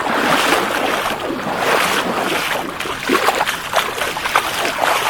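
Floodwater splashing and rushing, a continuous wash of noise broken by many irregular splashes.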